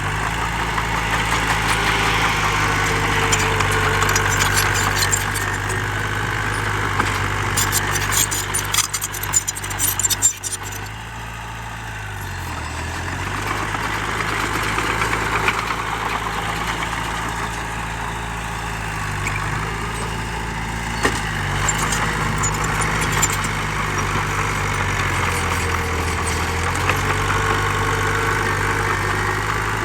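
Heavy diesel engine running steadily, its pitch dipping and recovering a few times as the load changes. A burst of clattering comes about eight to ten seconds in.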